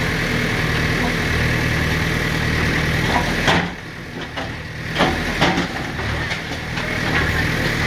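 JCB backhoe loader's diesel engine running steadily at low revs. It drops back about halfway through, with a few sharp knocks around then and a second later.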